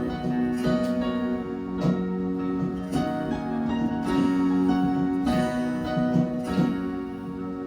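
Acoustic guitar strumming sustained chords, the instrumental close of a worship song.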